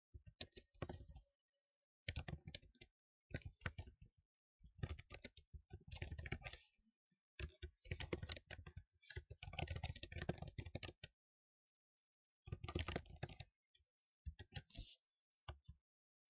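Typing on a computer keyboard in quick runs of key clicks, broken by short pauses, with a longer pause of about a second and a half a little past the middle.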